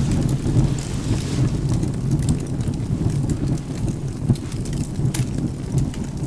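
Wood fire crackling with scattered sharp pops over a steady low rumble of rain and thunder.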